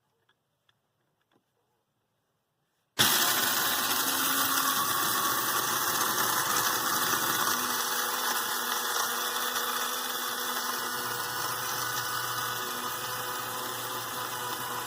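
Kaffe KF2030 electric blade coffee grinder switched on about three seconds in and running continuously, whirring loudly as its blade chops a full load of about 2.5 ounces of coffee beans. The sound grows gradually quieter as it runs.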